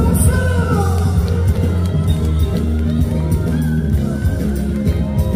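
Live band music over a stage sound system: a steady, heavy bass line with a gliding melody line on top.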